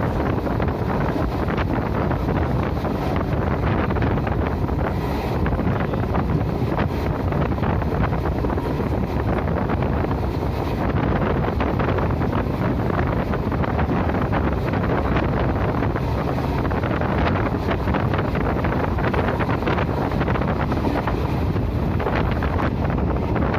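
Wind rushing over the microphone with the steady running noise of a passenger train, heard from a window of the moving train.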